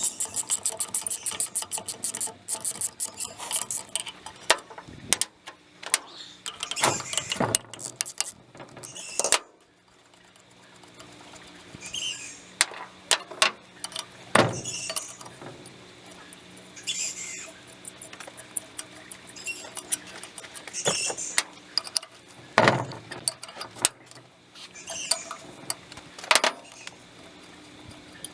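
Hand tools working the bolts of a Blackmer vane pump's suction flange: a rapid run of ratchet-like clicks at the start, then scattered metal clinks and knocks with short, high squeaks as the bolts turn.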